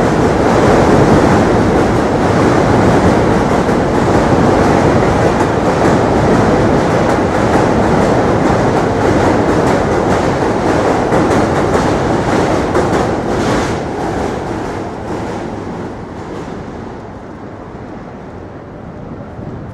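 New York City subway train crossing the steel Manhattan Bridge, a loud rolling rumble of wheels on track that fades away over the last several seconds as the train moves off.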